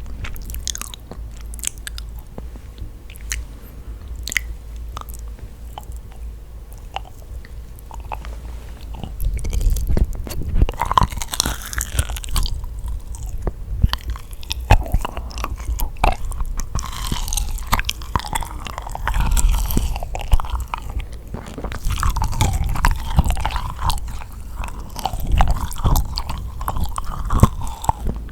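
Close-miked mouth sounds of someone biting and chewing yakgwa, a dense, sticky, honey-soaked Korean fried cookie: many small sticky clicks and smacks, softer at first and louder from about nine seconds in.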